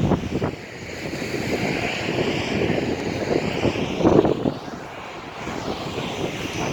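Jet airliner passing low overhead on its landing approach, a continuous loud engine roar with a slowly shifting whine.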